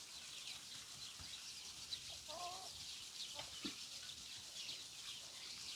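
Faint outdoor birdsong: small birds chirping in many short high notes throughout. A hen clucks briefly about two seconds in.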